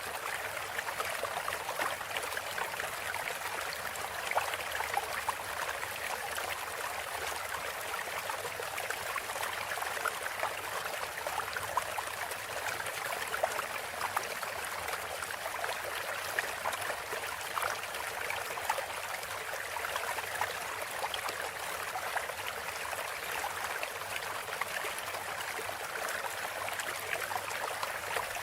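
Flowing water of a stream, a steady even splashing and trickling with no break.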